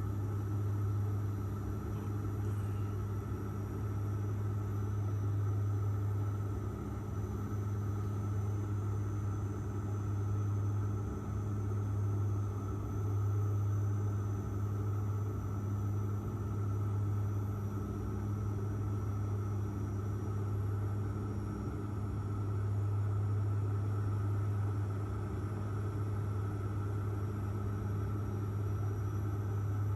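Airliner cabin noise: a steady low drone from the aircraft's engines, with a deep hum that swells and fades every few seconds and a faint higher whine above it.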